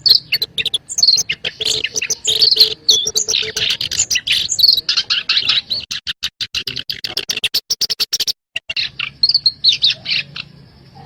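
Black-browed reed warbler song: a fast, unbroken run of harsh clicking notes mixed with short high whistles, breaking off briefly about eight seconds in before resuming.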